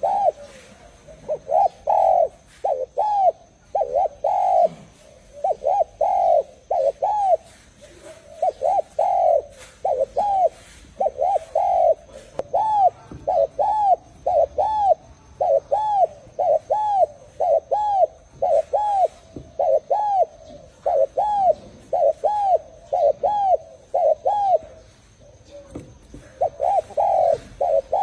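Spotted dove cooing over and over: short, arched coos in quick runs with brief pauses, with faint chirping of small birds and a thin steady high whine behind.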